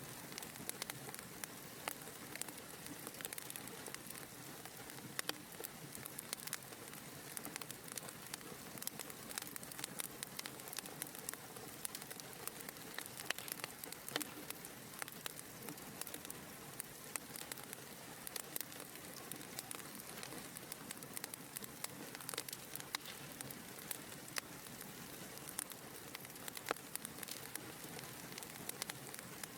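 Wood fire crackling steadily: a soft hiss of flames with frequent sharp pops and snaps.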